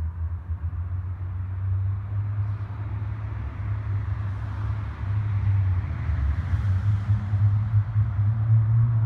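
Mitsubishi Lancer Evo IX's turbocharged four-cylinder engine heard distant down a road tunnel, with aftermarket exhaust: a low steady rumble that grows louder about halfway through. Right at the end its pitch starts rising as the car accelerates hard.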